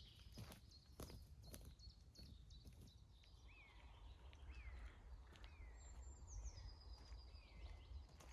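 Faint woodland birdsong: a bird repeats a short curved call about once a second through the second half, with a thin high whistle near the end. A few sharp clicks sound in the first two seconds, over a steady low rumble.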